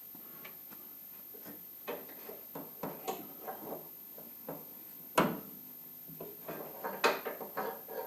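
Irregular clicks and knocks from parts being handled, with a sharp knock about five seconds in and another about seven seconds in.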